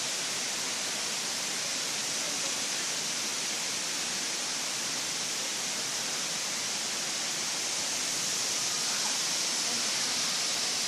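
Waterfall: a steady, even rush of falling and flowing water, with a bright hiss and no change throughout.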